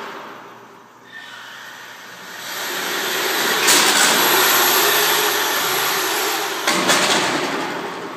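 Radio-controlled HPI car running hard, its motor and spinning tyres making a loud rushing whine that swells about 2.5 s in and fades after about 7 s, with a couple of sharp knocks.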